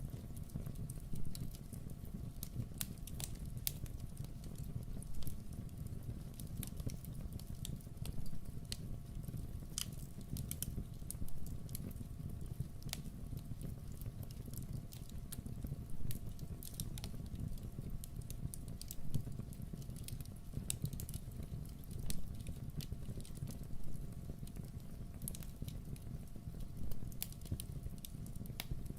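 Wood fire crackling, irregular sharp snaps and occasional louder pops over a steady low rush.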